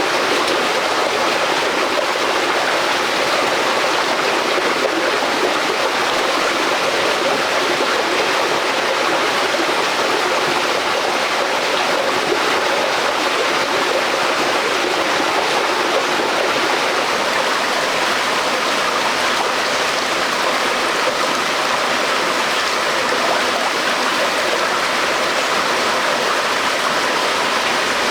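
Flowing stream water, a steady rushing that holds evenly throughout.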